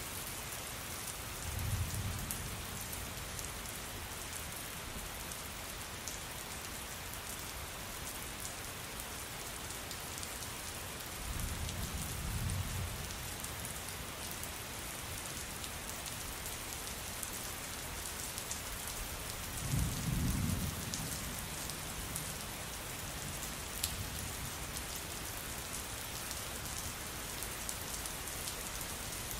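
Steady rain falling on a surface, with fine drop ticks over an even hiss. Three short, low rumbles of thunder come through it: about two seconds in, near the middle, and about two-thirds of the way through. The last rumble is the loudest.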